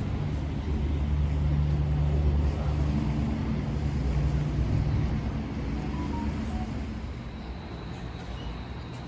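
A motor vehicle running with a steady low engine and road rumble. It swells over the first few seconds and eases off after about seven seconds.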